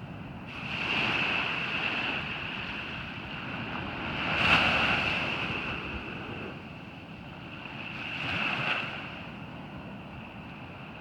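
Ocean surf breaking on a beach: three rushing swells of wave noise, the loudest about halfway through, over a steady high hiss.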